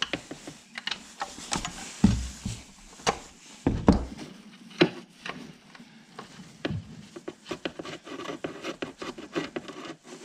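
Handling noises of a workshop: a run of knocks, clunks and scrapes, with two heavier thuds about two and four seconds in and quicker small taps later, as the concrete saw and things to prop it on are moved about.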